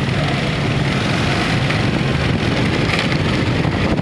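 Steady road traffic noise: engines running and tyres on a wet road.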